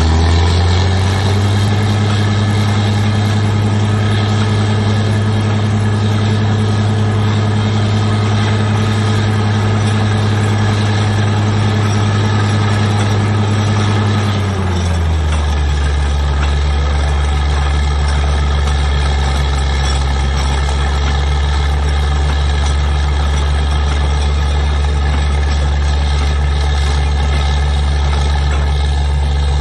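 Heavy engine of a truck-mounted water well drilling rig running steadily; about halfway through its speed drops smoothly and it settles at a lower, steady pitch.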